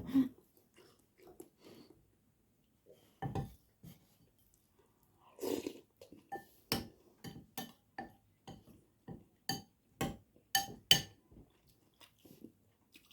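Close-up eating sounds: chewing and mouth noises, then a run of sharp clinks of cutlery against a plate or bowl in the second half.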